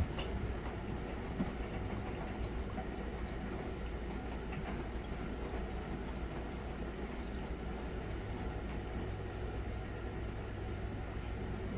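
Miele Novotronic W921 washing machine running mid-cycle: a steady low machine hum, with the low tone growing stronger about nine seconds in.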